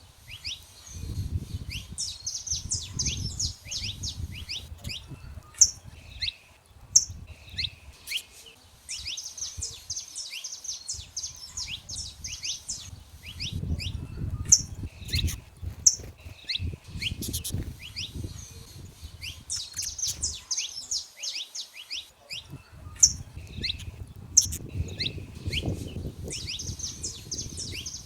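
Saffron finches singing: repeated bursts of fast, high twittering song with loud, sharp chips scattered through, over a low rumble that comes and goes.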